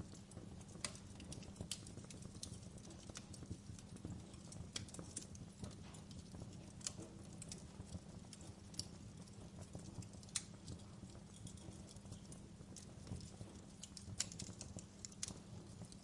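Wood fire in a fireplace crackling: irregular sharp pops and snaps, a few every second, over a steady low rumble.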